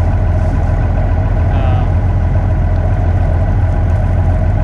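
Old combine harvester running steadily: an even, unbroken engine hum with the machine's running noise layered over it.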